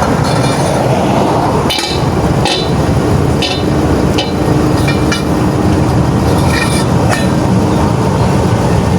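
Truck engine running steadily, with a series of sharp metallic clinks, about seven spread over several seconds, as of tools striking metal during a roadside truck tyre change.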